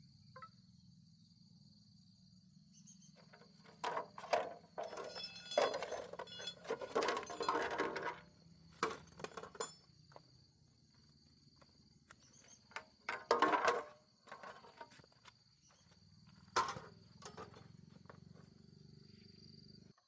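Steady high insect chirring with a low hum beneath. Bursts of knocking and clattering break in about four seconds in, again a little past the middle, and once more near the end.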